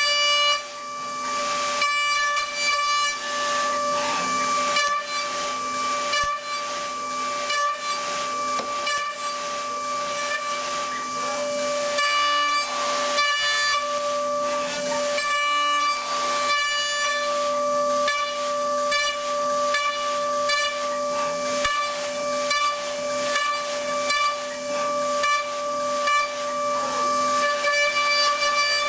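DATRON M8Cube CNC milling machine's 3.0 kW high-frequency spindle high-speed milling an aluminium housing: a steady high whine with a hissing cutting noise. The noise is broken by many short ticks and a few brief changes in the tone.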